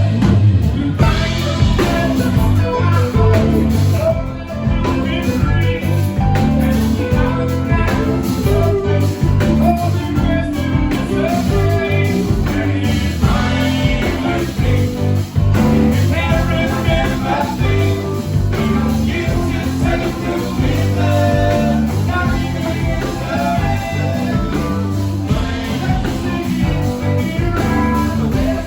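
Live rock band playing a blues-rock number with electric guitar, bass and drums.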